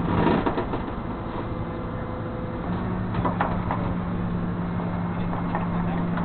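Flatbed tow truck's engine running with a steady low hum, which takes on a stronger tone a couple of seconds in. Short metallic clatters come right at the start and again around three and a half seconds in.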